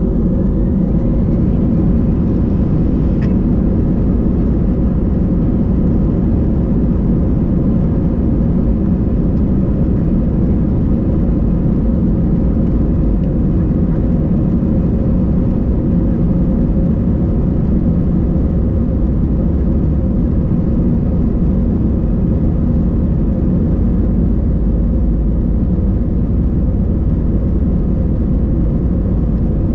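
Airbus A320's jet engines running steadily, heard from inside the passenger cabin as a loud, unchanging low drone with a steady hum.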